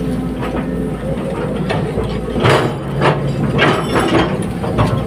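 Hydraulic excavator's diesel engine running steadily, with a few short clanks of its tracks or working gear, mostly in the second half.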